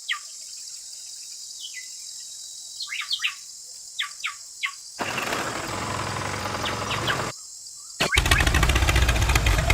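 Small birds chirping in short, quick, falling calls for the first few seconds. Then a steady noise with a low hum comes in, and about eight seconds in a louder, fast-pulsing mechanical noise with a low rumble starts.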